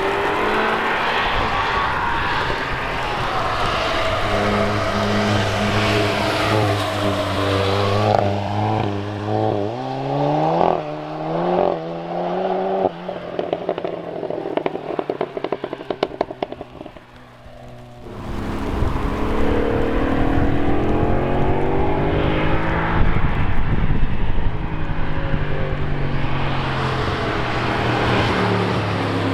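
Cars driving past on a race track. One car accelerates hard through several gear changes and fades into the distance. More cars then approach and pass.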